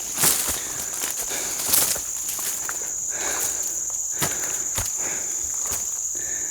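Footsteps scuffing and crunching on a steep forest trail, a handful of irregular steps, over a steady high-pitched drone of insects.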